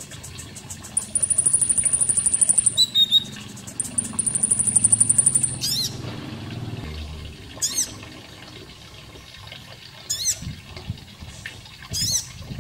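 Konin (kolibri ninja sunbird) song: two long, very high, fast trills early on, then short, sharp chirping phrases every couple of seconds, over the faint sound of running water.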